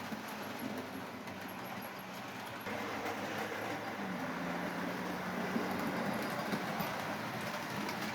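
Bachmann A1 model locomotive running along the track under power: a steady electric motor hum over the whirr of the gears and wheels on the rails, with a few light clicks. About three seconds in the running noise gets louder, and a second later the hum drops a little in pitch. It runs smoothly on its newly replaced centre drive gear.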